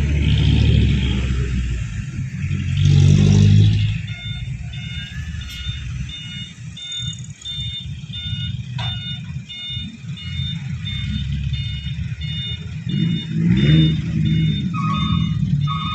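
Diesel engine of a Mitsubishi Canter HDX dump truck running under load, swelling in loudness about three seconds in and again near fourteen seconds. Over it, from about four seconds in, a repeating pattern of short high electronic beeps at several pitches, about two a second.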